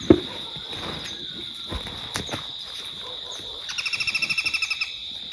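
A bird's rapid, even trill of about a dozen notes a second starts more than halfway through and lasts just over a second, over a steady high-pitched insect drone. A single thump comes at the very start.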